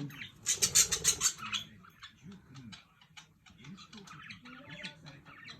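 Pet budgerigars squawking and chattering: a loud burst of rapid, harsh calls about half a second in, lasting about a second, then softer scattered chirps and clicks.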